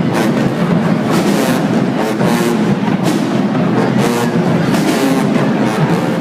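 A marching band playing: brass over a drumline, with a steady beat of drum and cymbal hits.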